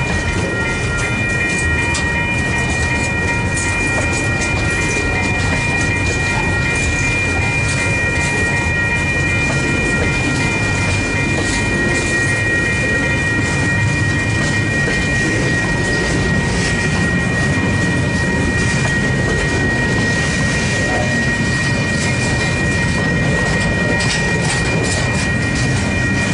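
A freight train's container wagons rolling steadily past, wheels clicking over the rails under a continuous rumble. Several steady high-pitched ringing tones sound over the rumble.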